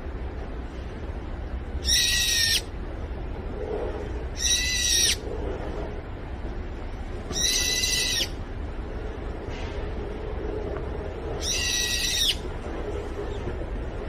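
A bird calling four times a few seconds apart, each call loud, under a second long and held at one pitch. A steady low rumble runs underneath.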